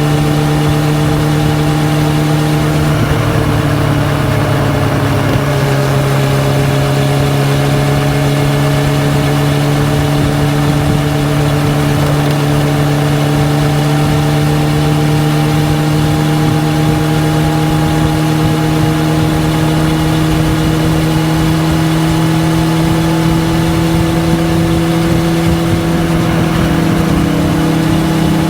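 Honda CB400SF Hyper VTEC's inline-four running through a Yoshimura titanium full exhaust system under way. The engine note dips briefly a few seconds in, then climbs slowly and steadily in pitch as the revs build, with a small step near the end.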